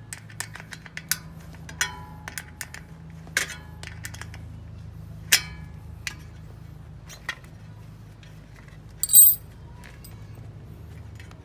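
Scattered clicks and taps of tools and metal parts being handled during bicycle puncture repair, with one loud, bright, ringing metallic clink about nine seconds in.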